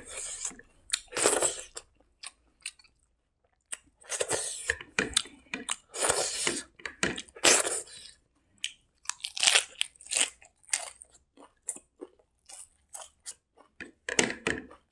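Chewing and crunching of food while eating, in irregular bursts of crackly bites with short pauses between them.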